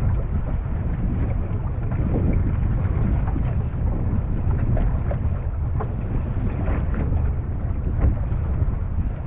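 Wind buffeting the microphone on a small boat in rough, gusty weather: a steady heavy low rumble with many short scattered crackles.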